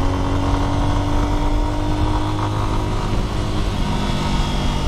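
Lifan X-pect 200's single-cylinder 198 cc fuel-injected engine running under way, its pitch climbing slowly for about two and a half seconds and then easing.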